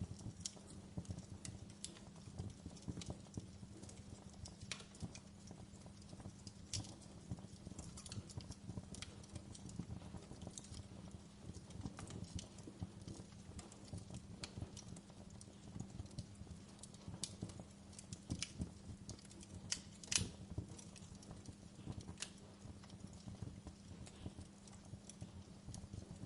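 Wood fire in a fireplace crackling, with irregular sharp pops and snaps over a steady low rumble; one louder pop about twenty seconds in.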